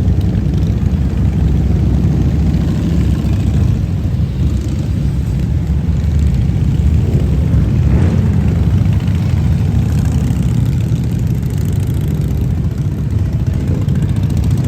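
Steady, loud low rumble of vehicle engines on the move.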